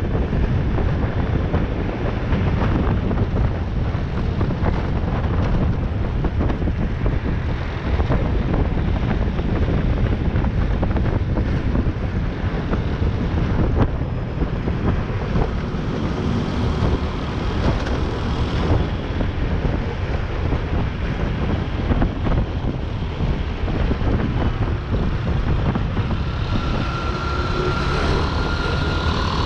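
Riding on a motorcycle: wind rushing over an action camera's microphone, mixed with the engine and traffic rumble, steady throughout. A faint high whine joins near the end.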